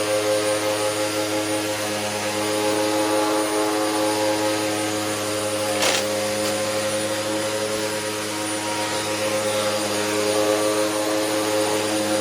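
Hoover Max Capacity upright vacuum running steadily: a motor whine over a broad rushing hiss, with a single sharp click about six seconds in.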